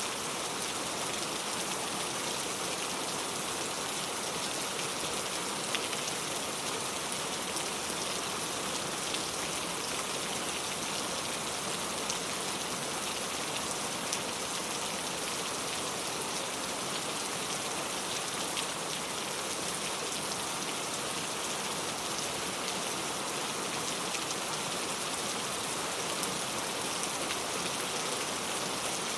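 Steady rain falling, a dense even hiss with occasional louder individual drops.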